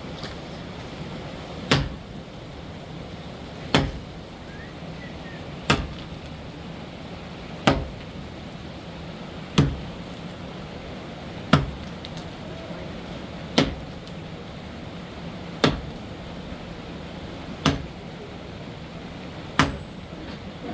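Hammer blows struck at an even, slow pace, ten strikes about two seconds apart, over a steady low hum.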